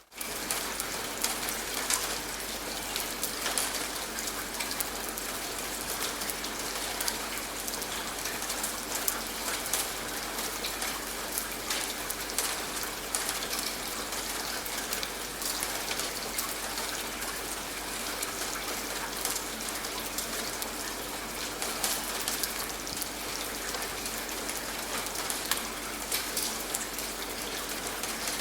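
Steady rain falling on a surface, an even hiss with many small individual drop hits scattered through it.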